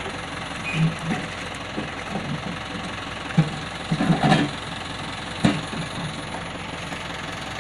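Truck engine idling steadily, with a series of heavy thumps over it; the loudest come about four seconds in and another about five and a half seconds in.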